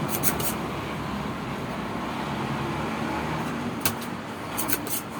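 Steady rushing background noise, with a few sharp clicks near the start and another cluster of clicks about four to five seconds in.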